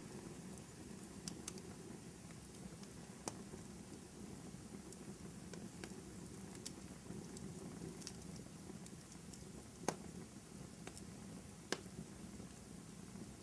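Wood fire burning in a fireplace: a faint steady low rush with scattered small crackles, and two sharper pops in the second half.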